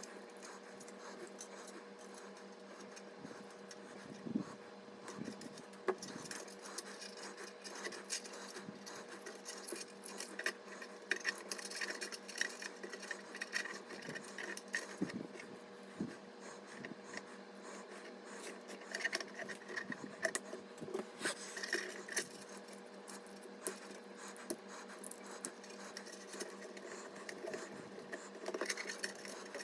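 Small clicks, taps and rubbing from computer parts being handled during a PC build, over a steady low hum.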